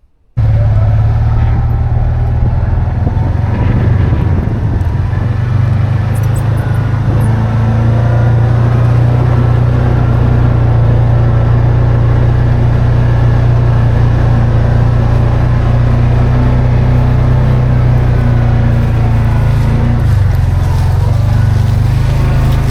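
An engine running steadily at a low, even pitch, starting abruptly about half a second in.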